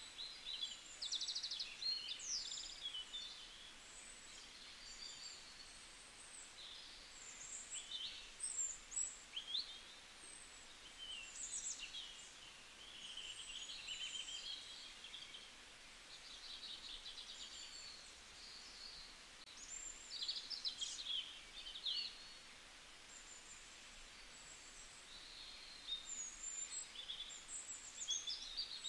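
Birds chirping and singing: many short, high whistled calls and chirps in clusters every few seconds, with brief lulls between, over a faint steady hiss.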